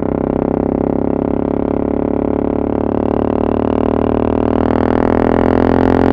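Motorcycle engine with an open exhaust, its dB-killers removed, pulling steadily under acceleration, its pitch and loudness rising slowly and evenly.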